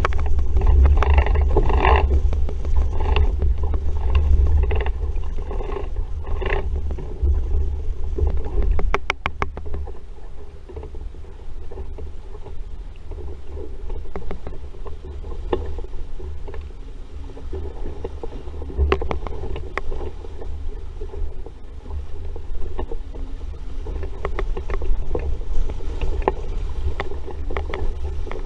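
Wind rumbling on the microphone and water rushing and splashing along the hull of an RS Vareo sailing dinghy under way in a breeze, with occasional short knocks. It is louder for the first several seconds, then eases.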